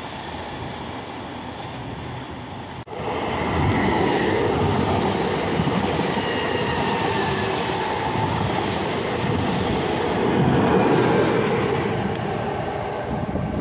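A regional passenger train running past close by, its wheels rumbling on the rails with faint squealing tones over the top. For the first three seconds it is a quieter, more distant train sound, which breaks off suddenly where the video is cut.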